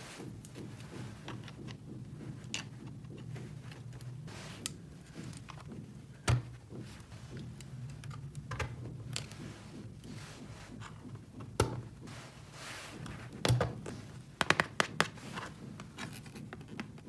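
Small plastic toy pieces being handled, set down and clicked together, with light scratching between scattered sharp clicks and a quick run of four or five clicks near the end.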